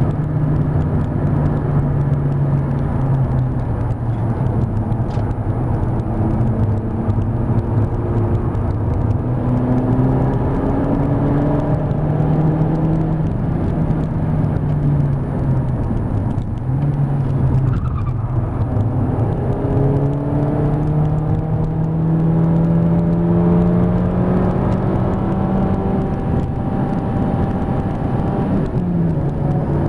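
Mk5 Volkswagen Golf GTI's 2.0-litre turbocharged four-cylinder engine heard from inside the cabin under hard driving on track, its note climbing through long pulls, dropping briefly about halfway through and again near the end, over steady road and wind noise.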